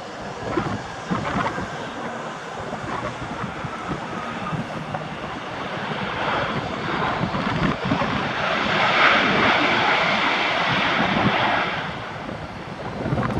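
Jet airliner's engines, a rushing noise that swells about halfway through and fades near the end, as the aircraft passes. Strong wind buffets the microphone throughout.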